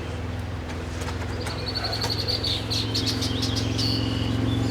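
Birds chirping, with a quick run of high chirps about halfway through, over a steady low hum.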